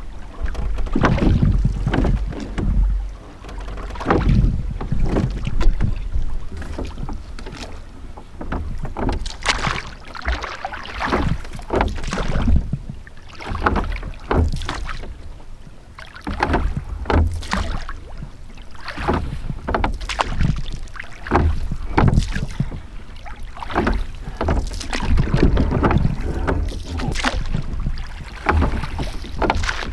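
Rowing a small sailing dinghy: irregular splashes and knocks of the oars, about one or two a second, over low wind rumble on the microphone.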